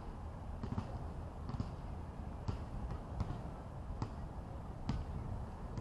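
Footsteps of a person walking at an even pace, about one step every 0.8 seconds, over a steady low rumble.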